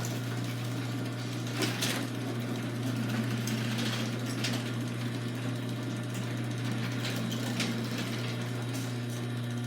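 Chamberlain chain-drive garage door opener running as the door closes: a steady motor hum with chain rattle and a few short clacks from the door and track.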